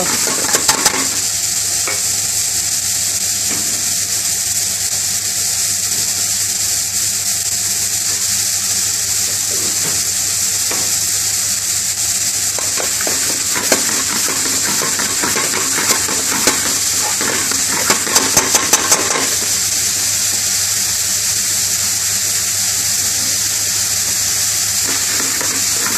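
Sliced onion and green and red peppers sizzling steadily in hot oil in an aluminium pan, stirred with a metal spoon that scrapes and clinks against the pan. There are a few sharp clinks, with a quick run of them about 18 seconds in.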